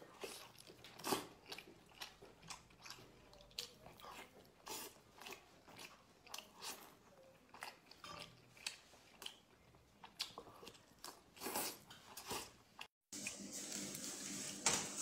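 Wet chewing and biting sounds of a person eating braised chicken, irregular sharp smacks about one or two a second. Near the end it breaks off for a moment and gives way to a steady hiss with a low hum, with a few more bites into lobster meat.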